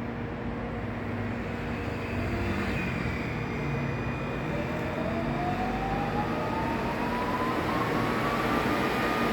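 Seoul Metro Line 4 electric train (set 462, DC-only) pulling away from a station. Its traction motors give a whine that rises steadily in pitch from about halfway through as the train picks up speed, then levels off near the end, over running noise.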